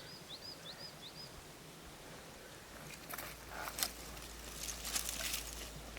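Outdoor ambience: a bird gives a quick series of five or six short, arched chirps in the first second, then from about three seconds in come irregular bouts of rustling and crunching over a low steady rumble.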